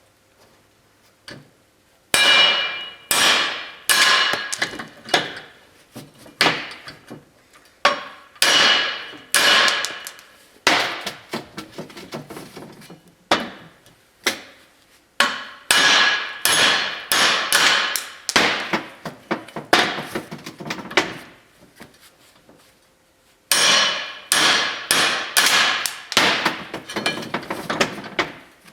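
Hand hammer striking steel wheel studs in a GM 12-bolt rear axle flange, the axle ringing after each blow. The blows come in runs of a few a second, with short pauses between runs.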